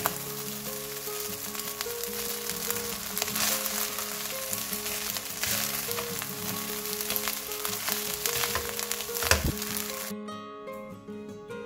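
Egg fried rice sizzling in a nonstick wok as a spatula stirs and tosses it, with surges of scraping and one sharp knock a little before the end. The sizzling cuts off about ten seconds in, leaving background music.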